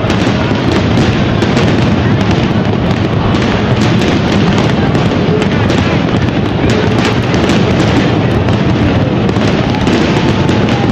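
Fireworks display: a dense, unbroken barrage of bangs and crackling, many shells bursting close together.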